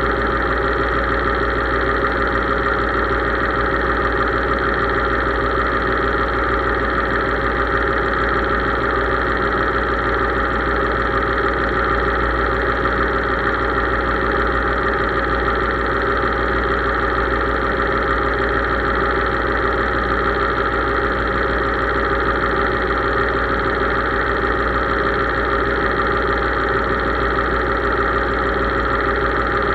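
Case tractor's diesel engine running at a steady, unchanging speed.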